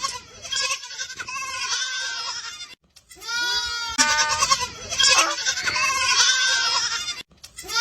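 Goat bleating: long, wavering calls in two stretches, with a short break about three seconds in.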